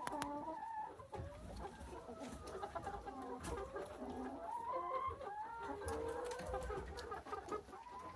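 A flock of hens clucking softly, with many short calls overlapping without a break, as the birds settle down to rest for the evening.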